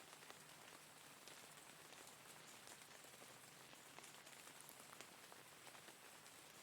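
Faint, steady rainfall: an even hiss of rain with scattered single drops ticking.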